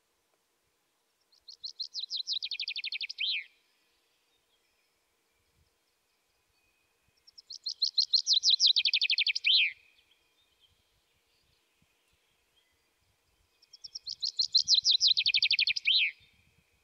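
A songbird singing the same short song three times, several seconds apart: each song a fast run of notes that falls in pitch and ends in a quick flourish.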